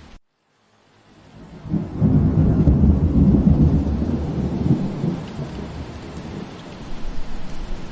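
Rain falling, which cuts out to silence for about half a second near the start and fades back in. A long, low roll of thunder then swells over the rain and slowly dies away.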